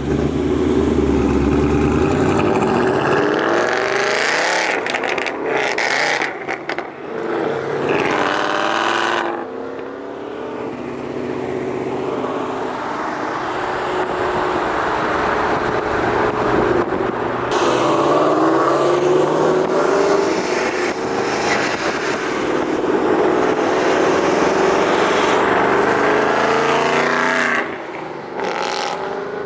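A Ford Mustang GT's 5.0 V8 engine running under way, its pitch climbing under acceleration and dropping back at gear changes several times, with a steadier cruising stretch in the middle. The level falls off near the end.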